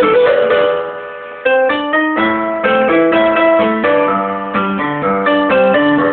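Piano being played: a run of single notes and chords that fades away about a second in, then a new run of notes starts about half a second later and carries on.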